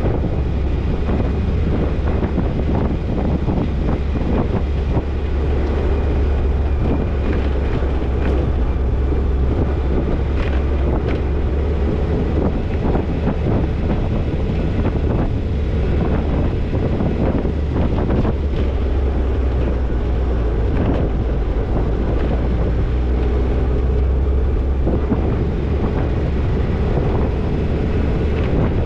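Toyota Tercel 4WD wagon driving on a rough dirt trail: steady engine and drivetrain rumble with scattered knocks and rattles over the bumps, and wind buffeting the microphone.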